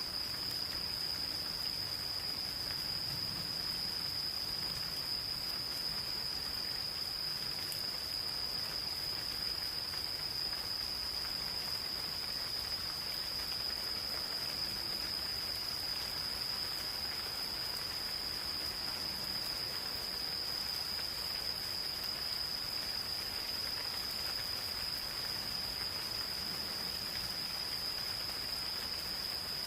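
Insects singing in one continuous, unbroken high-pitched trill over the soft, even hiss of light rain falling in a forest.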